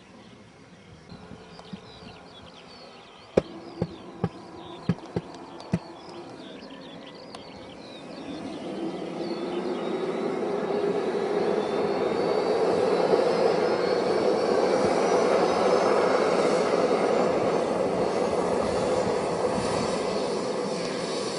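Small model jet turbine of an RC Hughes 500E helicopter starting up: a whine that rises steadily in pitch as the sound swells over several seconds, then settles into a steady loud run. A run of six sharp clicks comes a few seconds in, before the sound builds.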